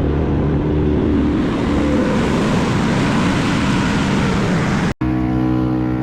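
Wood chipper engine running steadily, with a loud rushing noise over it. About five seconds in the sound cuts off abruptly and switches to another steadily running machine.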